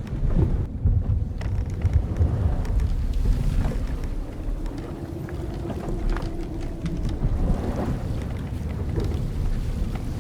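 Old wooden sailing ship creaking: the hull timbers and rigging give one long, drawn-out creak through the middle, with a few short ticks, over a steady low rumble of wind and sea.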